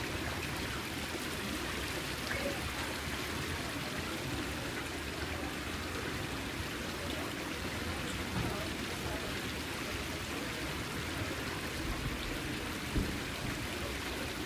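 Water running and trickling steadily, with three brief splashes standing out.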